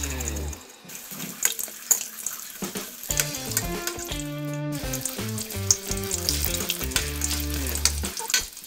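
Tofu fritters stuffed with bean sprouts frying in oil in a wok: a busy sizzling and crackling as a metal spatula turns them, under background music with held notes and a bass line.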